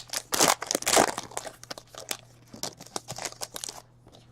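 Trading-card pack wrapper crinkling and tearing as it is opened and handled, an irregular crackling rustle that stops shortly before the end.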